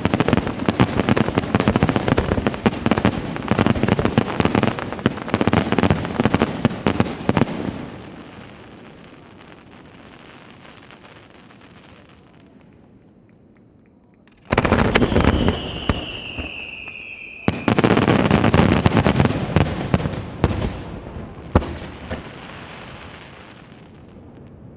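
Aerial fireworks bursting: a dense run of crackling and booming shells that dies away to faint crackle, then a second loud barrage carrying a high whistle that slides slightly down, more bursts, and one sharp bang near the end.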